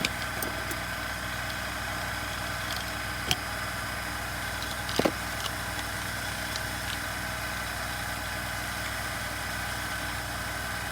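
Steady background hum with a few light clicks and taps from handling small chainsaw parts, one near the start, one about a third of the way in and one about halfway through.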